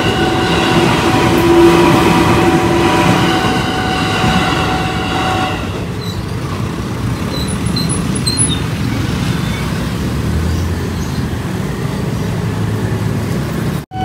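Commuter electric train (KRL, ex-JR 205 series car) running past a level crossing, with a loud rumble and steady ringing tones. About six seconds in the train sound stops, leaving quieter street noise from idling motorbikes. The sound cuts off abruptly just before the end.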